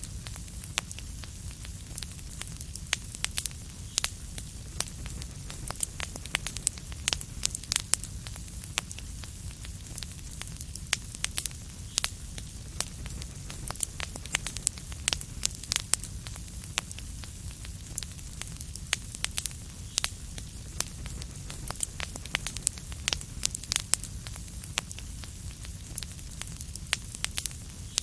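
Fireplace fire burning, crackling with frequent sharp pops and snaps over a steady low rumble and soft hiss.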